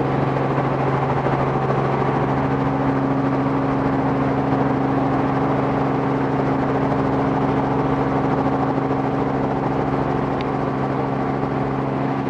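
Robinson R44 helicopter's engine and rotors running, a steady drone with an even low hum.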